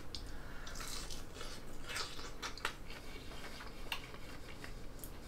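A person chewing a bite of battered, fried croaker nugget: faint chewing with scattered small clicks.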